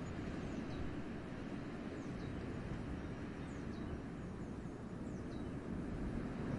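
Winter wind blowing through a forest as a steady low rush. A small bird's thin, high, downward-sliding call repeats faintly every second or two.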